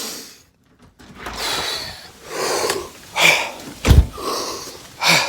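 A person breathing hard in a series of noisy breaths, with a loud thump about four seconds in.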